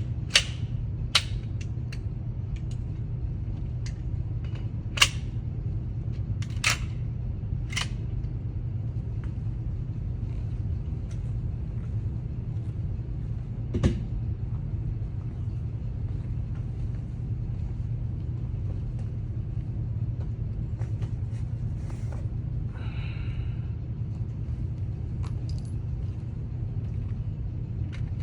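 Steady low rumble with a handful of sharp clicks and knocks, several in the first eight seconds and one more about fourteen seconds in.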